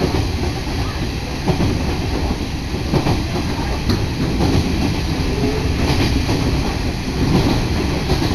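Diesel railcar running, heard from inside the carriage: a steady low rumble with a few faint clicks from the wheels on the rails.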